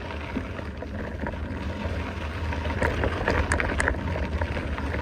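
Wind buffeting the microphone over the rolling noise of a mountain bike on a dirt trail, with a few sharp clicks and rattles about three seconds in.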